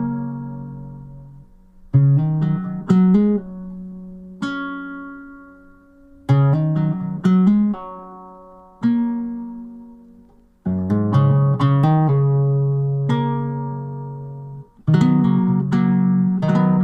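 Background music: an acoustic guitar picking short phrases of notes that ring out and fade, a new phrase every few seconds.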